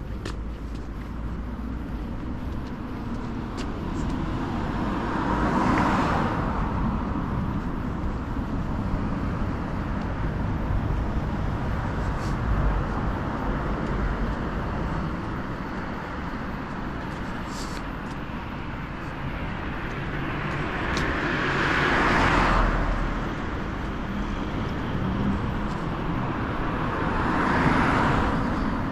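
Road traffic: vehicles passing close by, each swelling and fading away, three times (about six seconds in, past the two-thirds mark, and near the end), over a steady traffic hum.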